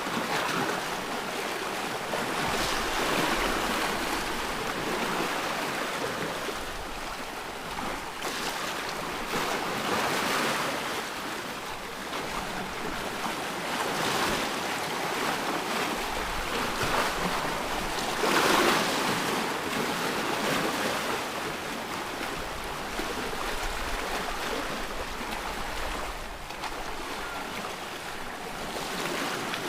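Ocean waves breaking and washing on a shore, a continuous rushing surf that swells and eases every few seconds, loudest about two-thirds of the way through.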